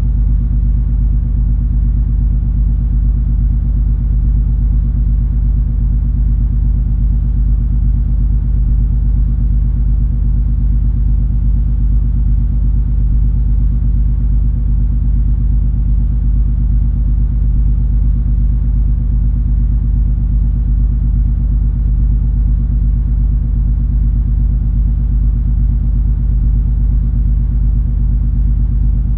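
Steady low drone of the cruise ferry MS Color Magic under way: a deep rumble with a few steady hum tones, unchanging in level.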